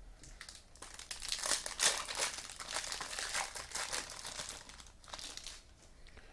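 Crinkling of a trading card pack wrapper being torn open and handled, a dense crackling that stops about a second before the end.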